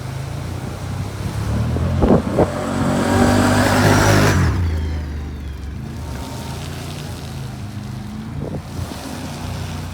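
A vehicle's engine revving as it drives into a mud hole, climbing in pitch to its loudest about three to four seconds in with a rush of noise, then easing back to a steady run.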